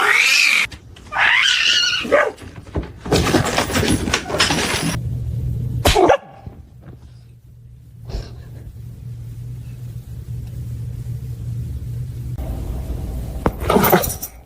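A dog barking and whining in several short calls, with a steady low hum under the middle stretch.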